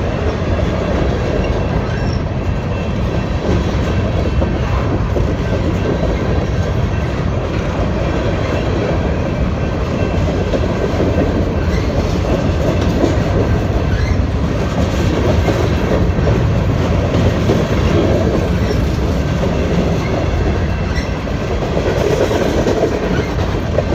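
Freight train cars, covered hoppers and a tank car, rolling past close by: a steady, loud rumble of steel wheels running on the rails.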